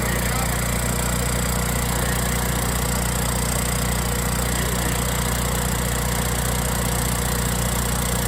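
Engine of a 16 kW Generac standby generator running at a steady speed: a constant low hum with a noisy mechanical rush over it.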